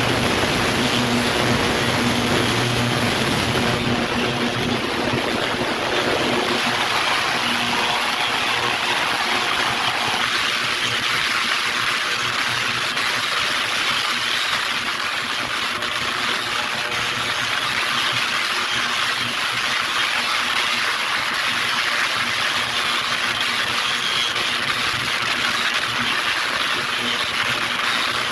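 Ultrasonic cleaner running with carburetor parts soaking in soap solution: a steady loud hiss and buzz. A lower hum under it drops away after about ten seconds.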